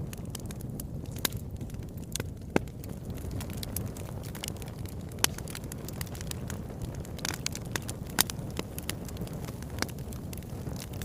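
Wood fire burning in a fireplace: irregular sharp crackles and pops of the burning logs over a low, steady rush of the flames.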